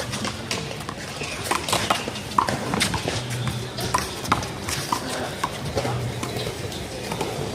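One-wall handball rally: a rubber handball slapping sharply and irregularly against hands, the wall and the pavement, several hits a second at times.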